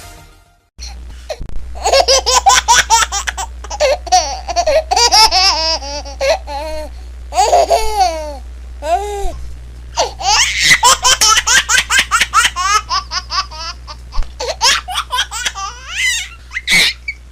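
A baby laughing hard in quick repeated bursts, some swooping up into high squeals. It starts about a second in after a brief silence, over a low steady hum.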